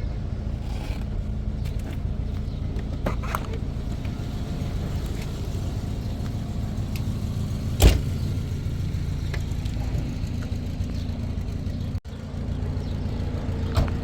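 A car driving, a steady low rumble of engine and road noise, with one sharp knock about eight seconds in.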